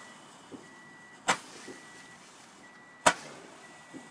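A 60-shot firework cake firing its shots one at a time: two sharp bangs about two seconds apart, with small faint pops between them.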